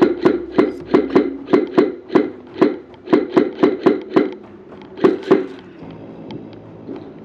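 Airsoft rifle firing rapid single shots, about three a second, in a long string of sharp cracks, with a short pause before two final shots about five seconds in.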